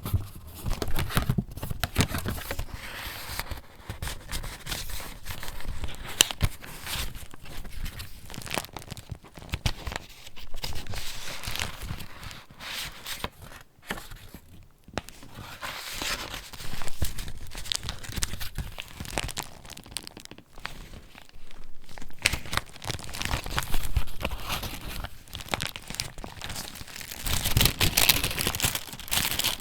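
Paper pages of a handmade junk journal rustling and crinkling as they are turned and handled, in uneven bursts with small sharp crackles.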